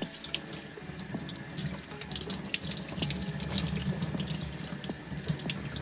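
Water running from a laundry-sink tap and splashing, with many small splashes throughout, as a pair of sneakers is held under the stream to wet them.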